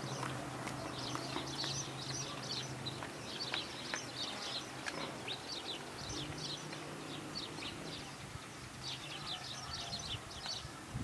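Many small birds chirping in quick, overlapping calls, with a faint low steady hum underneath.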